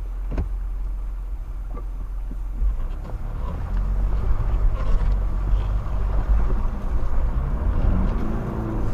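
Mitsubishi Pajero Sport's engine running, then working harder and louder from about three seconds in as the SUV tries to crawl out.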